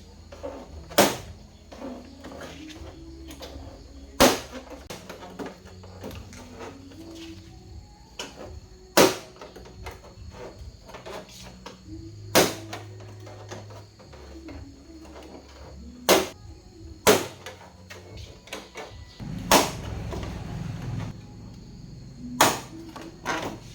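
Sharp knocks and clicks at irregular intervals, about eight in all, over a faint steady hum.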